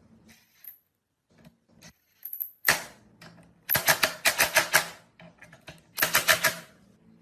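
Sharp knocks struck by hand: a few single ones, then two quick runs of about six a second, the second run about a second after the first ends.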